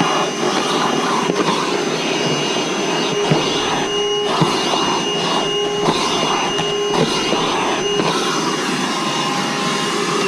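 Milwaukee M18 cordless wet/dry vacuum running at full suction: a steady motor whine over airflow noise, with irregular surges and a few sharp ticks. Right at the end the whine starts to fall in pitch as the motor winds down.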